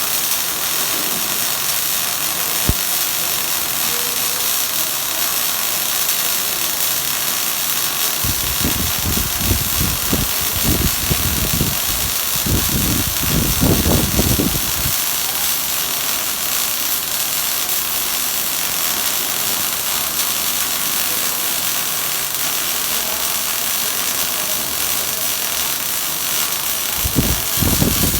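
Welding arc running steadily with a constant hiss. Low rumbling noises come in from about eight to fifteen seconds in and again near the end.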